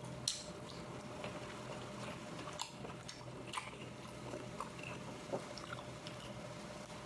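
A person chewing food close to the microphone, with scattered short wet mouth clicks.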